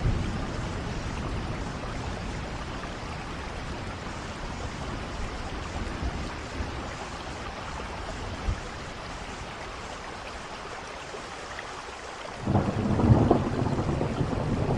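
Steady rain falling, with thunder rumbling low at the start and a louder roll of thunder building near the end.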